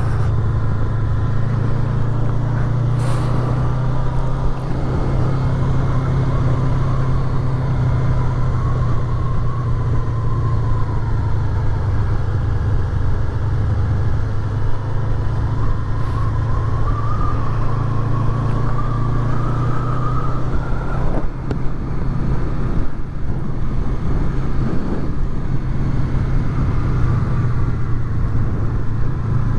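Honda VFR800's V4 engine running steadily while riding along. A higher whine climbs slowly in pitch for several seconds, then cuts off sharply about 21 seconds in.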